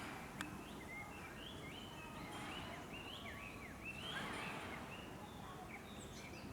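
Small birds chirping in a quick run of short up-and-down calls over a faint steady outdoor hiss, with one sharp click near the start.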